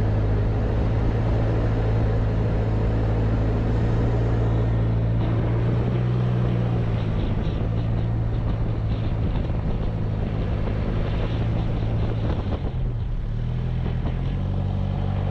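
Isuzu D-Max ute's diesel engine running steadily as the vehicle drives across soft beach sand, with a broad rush of wind and tyre noise. The engine note eases off about halfway through and picks up again near the end.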